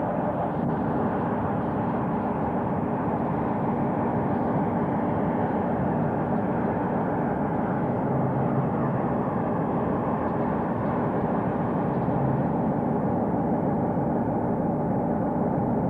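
Steady, even rumble of a train running, with no distinct exhaust beats.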